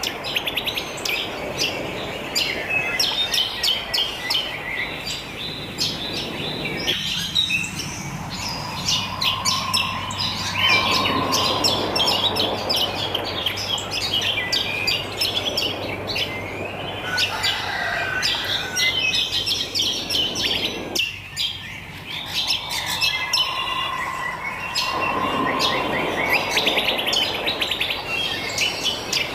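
A chorus of many wild birds chirping and trilling at once over a steady background hiss, the same stretch of chorus seeming to repeat about every fourteen seconds.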